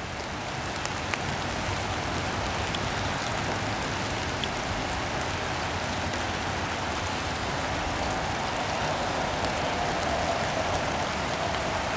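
Steady rain falling on surfaces, with the cars of a CSX mixed freight train rolling past underneath it.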